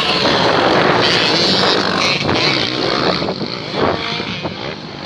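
Motocross motorcycles racing, several engines revving and changing pitch as they pass. The noise eases off about three seconds in and swells again near the end.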